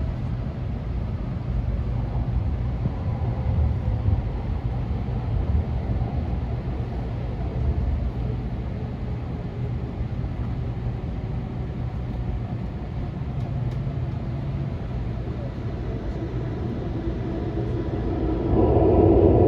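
Inside a Nishi-Kyushu Shinkansen N700S trainset running at speed: a steady, loud low rumble of wheels and car body, swelling near the end.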